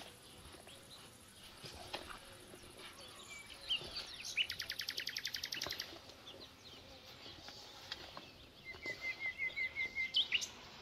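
Small songbirds chirping: a fast rattling trill about four seconds in, scattered single chirps, and a run of about six quick repeated notes near the end.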